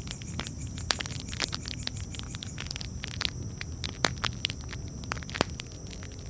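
Campfire crackling: irregular sharp pops and snaps, a few standing out louder, over a low steady rumble.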